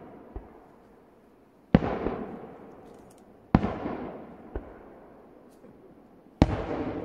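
Aerial firework shells bursting: three sharp booms about two seconds apart, each trailing off into a rolling echo that fades over a couple of seconds, with fainter thuds in between.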